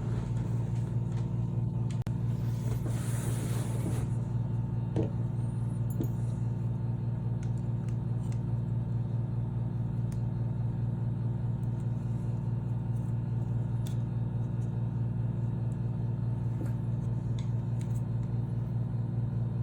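Steady low machine hum with an even pitch, with a few faint metallic clicks from pliers working a bent door lock and a brief hiss about three seconds in.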